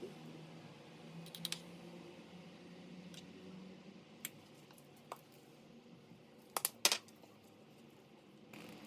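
A few scattered short, sharp clicks and taps, with the two loudest close together about two-thirds of the way through, over a faint steady low hum.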